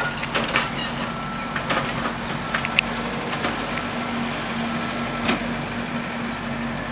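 Construction-site noise: an engine hums steadily while scattered sharp knocks and clanks sound throughout, the loudest near the middle.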